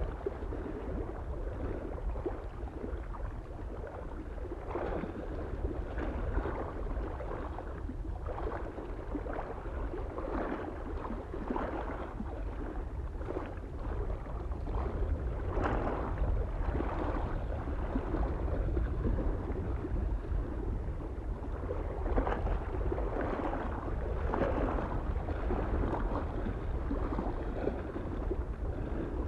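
Small lake waves lapping and splashing against the shore in an irregular rhythm, over a steady low wind rumble.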